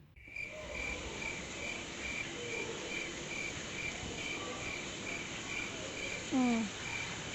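A cricket chirping steadily, about two even chirps a second. About six seconds in, a short falling call is heard.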